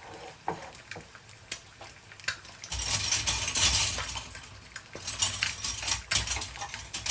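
A few light clinks of utensils, then food sizzling loudly in a hot pan from about three seconds in, in surges of hiss.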